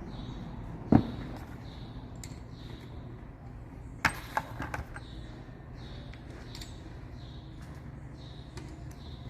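Metal knocks and clicks from handling tools and starter-motor parts during reassembly: one sharp knock about a second in and a quick run of clicks near the middle.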